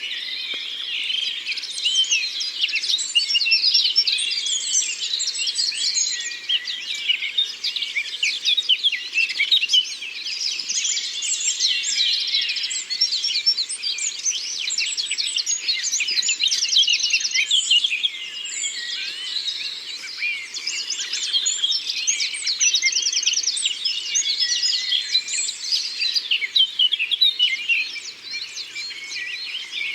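Dense chorus of many songbirds singing and chirping at once, with rapid trills standing out a couple of times.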